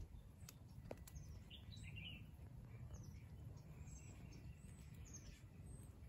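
Faint, scattered bird chirps: short high calls, a cluster about a second and a half in and more between four and five and a half seconds, over a low steady rumble.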